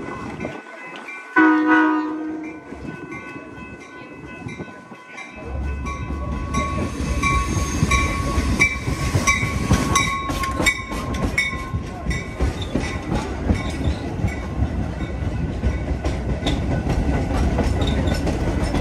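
Metra commuter train arriving. The horn gives one short blast about a second in. From about five seconds in, the stainless-steel bilevel cars rumble past close by, with sharp wheel clicks over the rail joints and a thin high tone that fades by about twelve seconds in.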